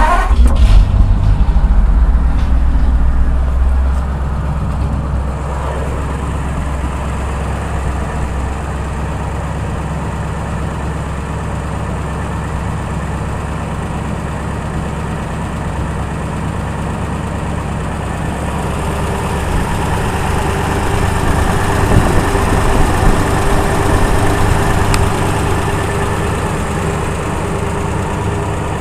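1936 Ford truck's flathead V8 catching on a cold start, running fast for the first few seconds, then settling into a steady idle. The engine speed rises somewhat about twenty seconds in and eases back down.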